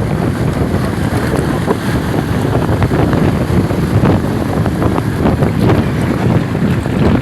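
Wind buffeting the microphone: a loud, steady, rough noise that runs on without a break.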